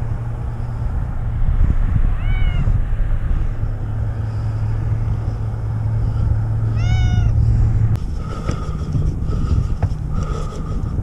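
Cat meowing twice: two short, arching meows several seconds apart.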